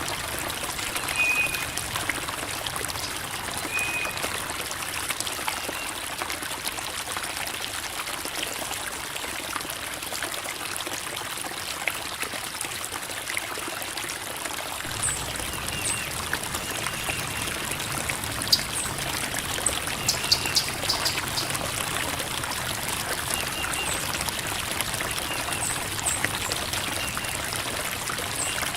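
Creek water flowing and trickling over rocks: a steady babble, with a few brief high peeps now and then.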